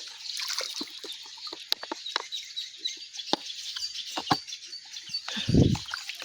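Water dripping and splashing in small clicks, over a steady high background of birds chirping, with a heavy low thud about five seconds in.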